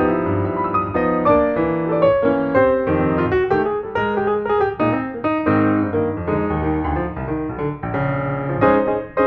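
Background music led by piano, playing a steady run of quick notes.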